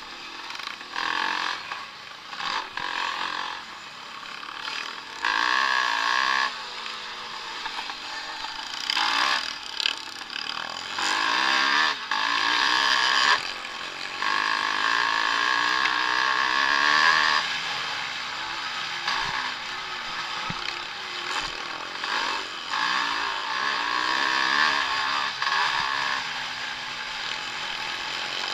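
Vintage motocross motorcycles racing, their engines revving hard in repeated surges that rise and fall as the bikes accelerate and back off.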